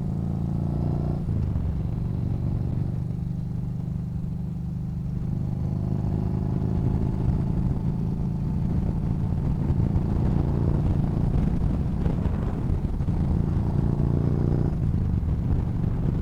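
Yamaha Bolt's air-cooled V-twin engine accelerating up through the gears while riding, its pitch climbing and then dropping at a shift about a second in and again near the end, over low wind rumble.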